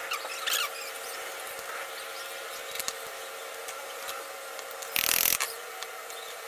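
Hand work on metal pistol parts: squeaky rubbing and small clicks over a steady hum, with a short, loud scraping burst about five seconds in.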